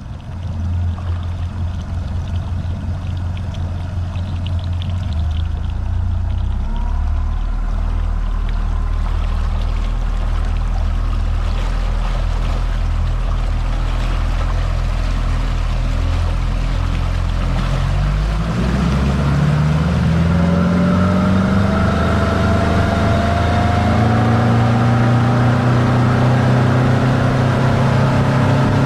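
Mercury 150 hp four-stroke outboard running at low speed with water rushing past the boat. About two-thirds of the way in it is throttled up, its pitch climbing steadily and the sound getting louder. It is a high-hour motor with over 500 hours on it.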